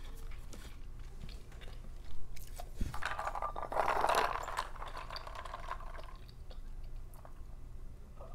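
A person chewing food close to the microphone, with small wet mouth clicks. About three seconds in there is a louder brief rustling scrape.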